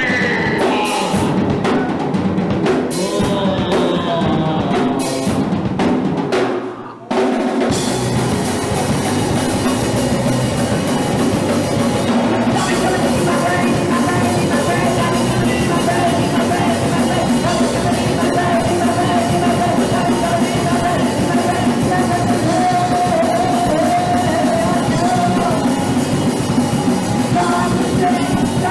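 Live punk rock band playing loudly, the drum kit prominent under guitars and bass. The sound drops out briefly about a quarter of the way through, then the full band plays on.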